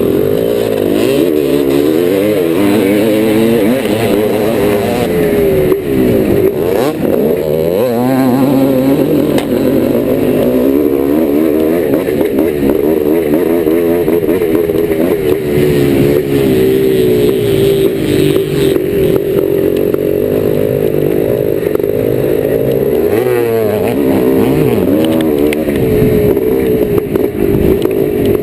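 1990 Yamaha YZ490's two-stroke single-cylinder engine being ridden hard on a motocross track, its revs rising and falling over and over with throttle and gear changes. The revs drop off briefly twice, once early and once near the end, before pulling up again.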